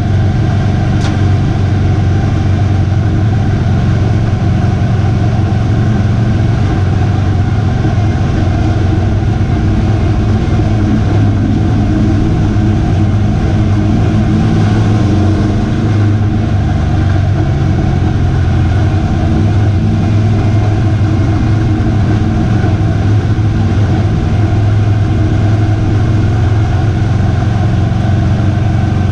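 V8 race truck engine running loud and steady at speed, with little change in pitch. A brief sharp tick comes about a second in.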